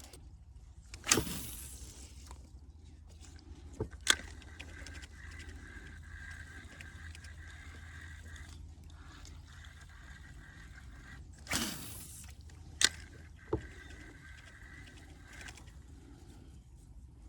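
Fishing rod cast with a swish, then a click of the reel and a steady whirring as the reel is wound to bring the lure in; about eleven seconds in a second cast follows, again with a click and a few seconds of reeling.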